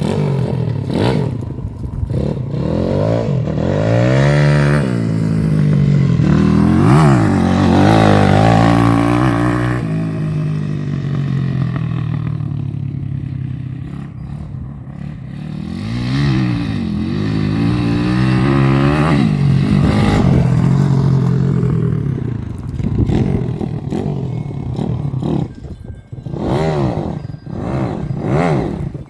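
SAIL 150cc single-cylinder four-stroke pit bike engine revving up and falling back again and again as the bike is ridden. The engine eases off about ten seconds in, revs hard again a few seconds later, and near the end drops to a weaker, uneven note with a few sharp knocks.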